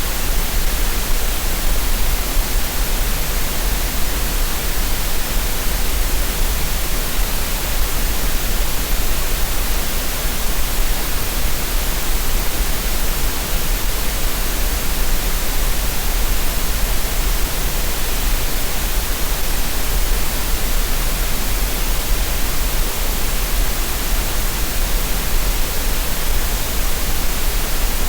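Steady synthetic green noise used for relaxation and tinnitus masking: an even, unbroken hiss with no changes.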